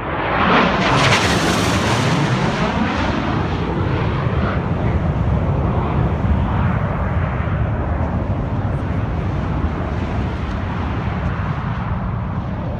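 Military jet making a low-level pass. Its engine roar swells to a loud peak about a second in and falls in pitch as it goes by, then carries on as a heavy, steady rumble that eases only slowly.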